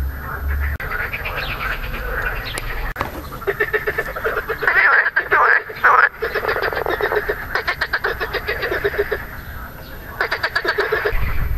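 Frogs, which the uploader takes for marsh frogs (Pelophylax ridibundus), croaking in rapid pulsed calls that overlap in bouts. The calls are loudest about five to six seconds in and ease off briefly near ten seconds.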